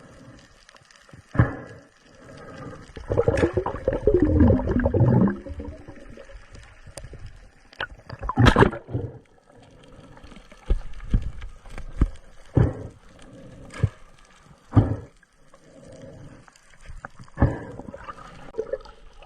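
Underwater sound as picked up by an action camera: bubbling gurgles, strongest for a couple of seconds early on, among irregular sharp knocks and thumps.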